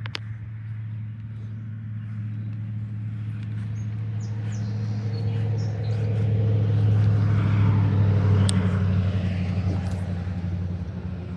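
Engine hum from a motor vehicle, steady and low-pitched, swelling to its loudest about eight seconds in and then easing off, with a few light clicks.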